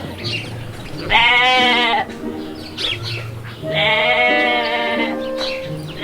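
A sheep bleating twice, each a long quavering call lasting about a second, over steady background music.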